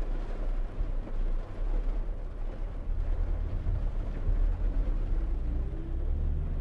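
Heavy wind-driven rain on a car, heard from inside the cabin, over a strong steady low rumble.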